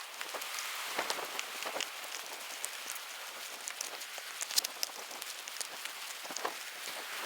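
Rain falling steadily, a constant hiss with many scattered, irregular taps of individual raindrops.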